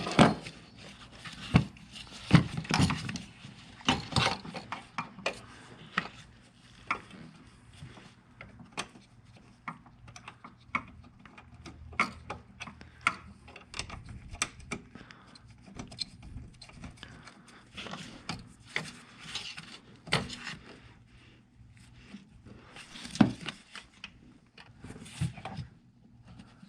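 Irregular clicks, taps and knocks of metal parts being handled as an accelerator pedal assembly is set back in place and its bolts are started by hand, over a faint steady low hum.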